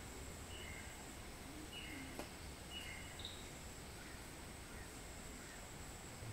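Quiet outdoor background: short, high bird chirps repeating about once a second over a steady hiss and a thin, steady high-pitched tone, with one faint click about two seconds in.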